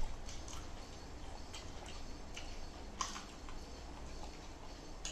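Eating sounds: chewing and mouth noises heard as irregular soft clicks, the loudest about three seconds in.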